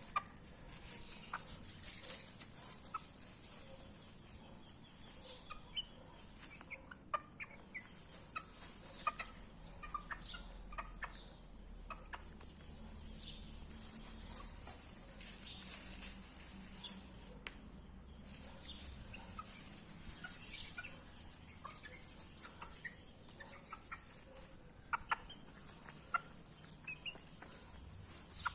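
Young chickens peeping and cheeping while they forage on grass: many short, high chirps scattered irregularly, with a few louder ones near the end.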